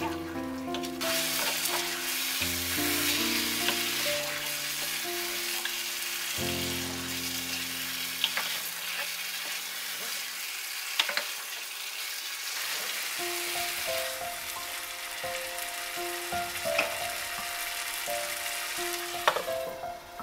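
Chicken pieces frying in hot oil and masala, sizzling steadily while a wooden spatula stirs them, with occasional sharp clicks of the spatula against the pot. The sizzling starts about a second in and drops away near the end as a lid goes on the pot.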